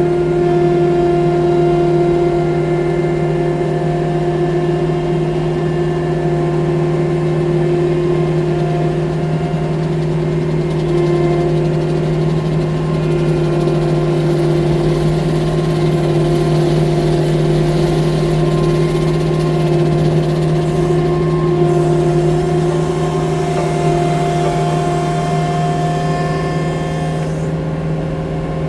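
Compact track loader's diesel engine running steadily at working revs, easing off slightly near the end.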